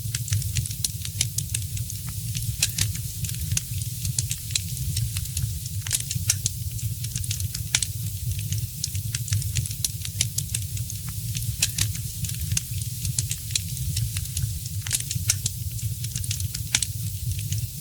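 Fire in a fireplace crackling: many irregular sharp pops and snaps, several a second, over a steady low rumble.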